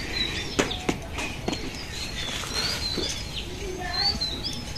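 Small birds chirping over and over in short, high calls, with a few light knocks in the first second and a half.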